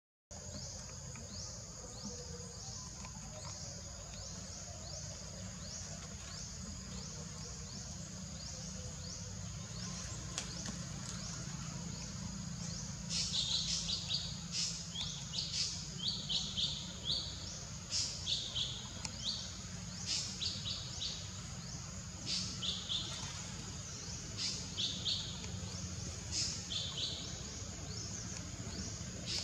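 Forest ambience: a steady high-pitched drone over a low rumble, and from about halfway through a bird calling in quick runs of short, high, downward-slurred chirps.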